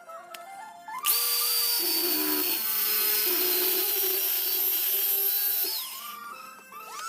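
Electric power tool switched on about a second in, running steadily with a high motor whine for about five seconds, then switched off and winding down.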